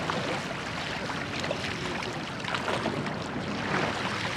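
Steady rushing of water and wind noise from a rowed church boat underway, with faint voices now and then.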